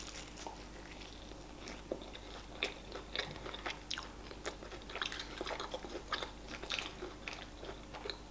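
A person chewing a crispy fried chicken wing (KFC spicy wings), with many short soft crunches and small wet mouth clicks.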